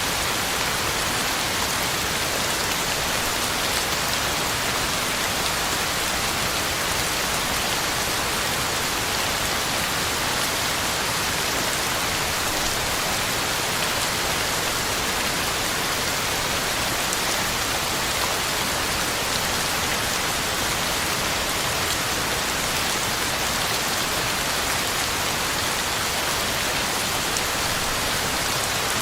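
Heavy rain falling steadily, a dense even hiss of drops on the ground and leaves.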